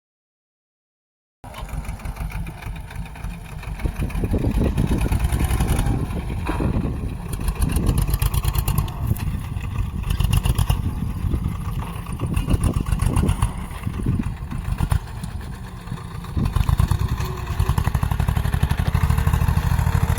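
Diesel tractor engine running with a rapid, even firing beat, growing louder about 4 s in and again near the end, after about a second and a half of dead silence at the start.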